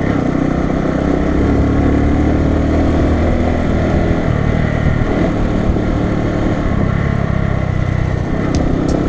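Bajaj Boxer BM 150's single-cylinder four-stroke engine running steadily as the motorcycle rides along.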